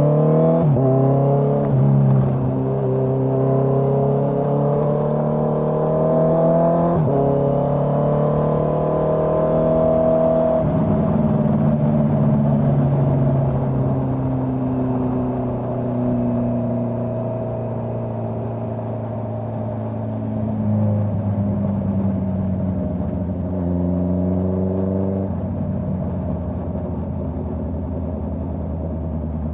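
Honda CBR650R's inline-four engine through a Dominator GP full-system exhaust, accelerating with the pitch climbing and dropping at each of three upshifts in the first ten seconds or so. It then runs at fairly steady revs, with a short rise in revs that cuts off near the end.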